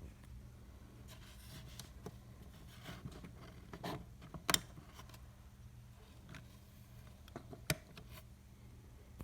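Faint handling noise: scattered rustles and small clicks over a low steady hum, with two sharper clicks about four and a half and seven and a half seconds in.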